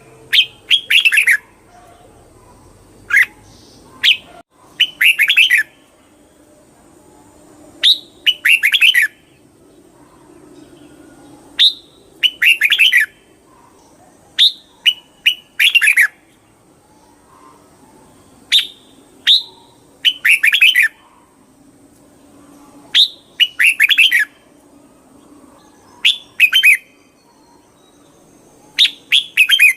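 Red-whiskered bulbul singing: short, bright warbled phrases every two to four seconds, with single sharp notes between them.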